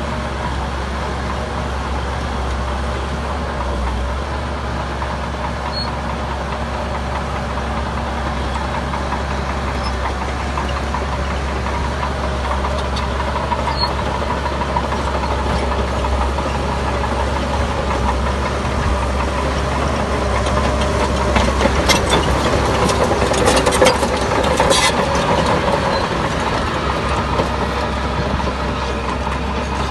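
Heavy diesel earthmoving machinery running steadily, with a cluster of sharp metallic knocks and clanks a bit past the middle, the loudest part.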